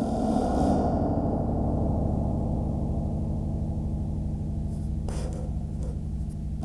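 Very large coil spring bolted to a wooden beam, picked up by a contact mic, ringing after being set off: a loud, sustained metallic drone with strong low tones and a fast flutter, with a short scrape about five seconds in.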